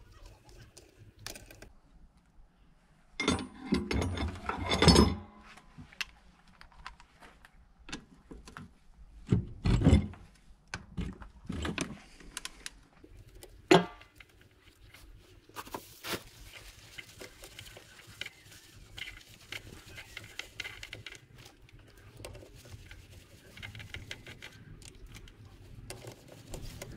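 Metal tools and engine parts clinking and clattering during a motorcycle engine teardown, loudest in a burst of rattling knocks about three to five seconds in, then scattered knocks and a sharp click.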